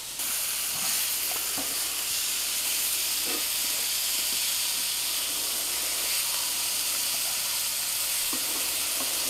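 Blackened walleye fillets and diced vegetables frying in two skillets on the stove: a steady sizzle.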